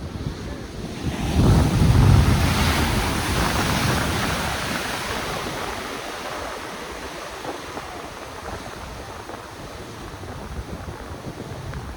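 Ocean wave surging in and breaking, swelling about a second in and then washing away over several seconds, with wind buffeting the microphone.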